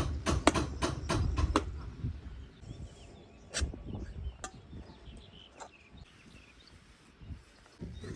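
A quick run of sharp knocks, about three a second, stopping about a second and a half in, then a few single knocks spaced out over the next few seconds, with faint bird chirps.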